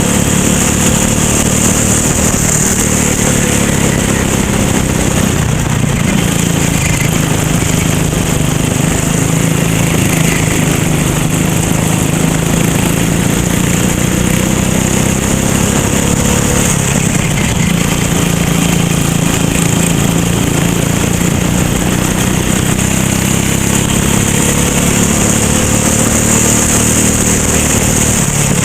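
Racing kart engine running hard, its pitch slowly rising and falling as the throttle and speed change, under a steady loud hiss.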